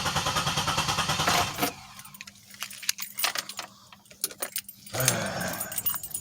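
Starter cranking the 2007 Pontiac Grand Prix GT's engine with a steady rhythmic churn that never catches, stopping about a second and a half in, followed by scattered light clicks and jingles like keys on a keyring. A crank-no-start, which the owner suspects lies in the fuel pump relay, fuse box or fuel pump wiring.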